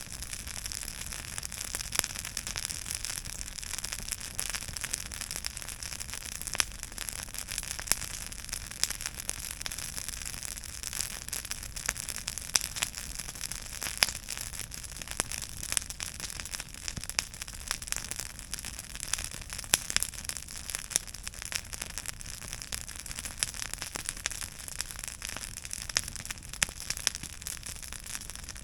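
Wood campfire crackling: frequent irregular pops and snaps over a steady hiss.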